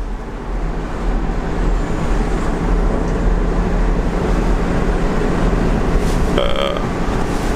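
Road noise heard from inside a moving car on a highway: a steady rumble of engine and tyres. A brief higher-pitched sound comes through a little over six seconds in.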